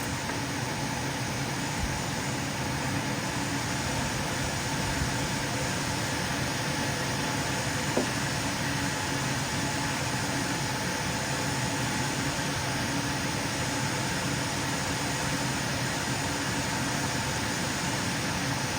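Lapidary cabbing machine running steadily with nothing being ground: an even motor hum with a hiss.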